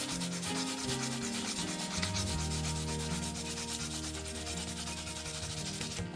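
Fine 600-grit sandpaper rubbed by hand over the painted body of an RC truck, in quick, even back-and-forth strokes. The strokes are wearing through the paint to the gray underneath, for a faded patina finish. The sanding stops at the very end.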